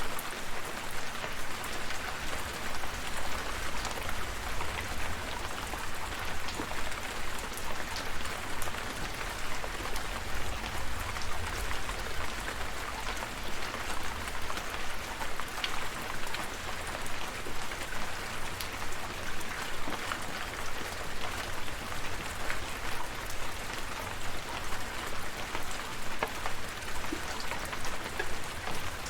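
Steady rain falling, with many sharp single drops ticking close by over the hiss and a low rumble beneath.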